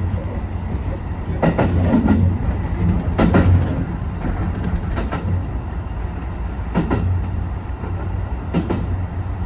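HB-E210 hybrid diesel train running at speed, a steady low hum with the wheels clacking over rail joints at a regular beat of about one clack every two seconds.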